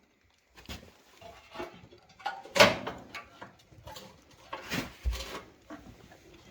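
Irregular sharp knocks and crackles from a freshly lit wood-burning fireplace, the loudest about two and a half seconds in and another near five seconds.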